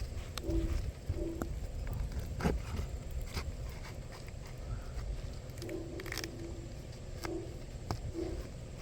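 A dove cooing in short, low, repeated notes, with scattered sharp clicks and taps, the loudest about two and a half seconds in, over a steady low rumble of wind.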